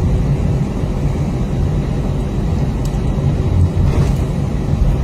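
Steady low rumble heard inside the cabin of an Airbus A320-232 on the ground, its IAE V2500 engines running at taxi power.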